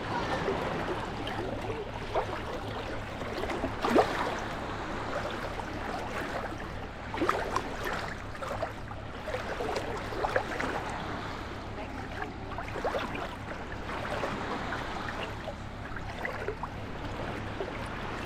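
Small sea waves lapping and washing at the shore, with irregular sharp splashes; the loudest comes about four seconds in.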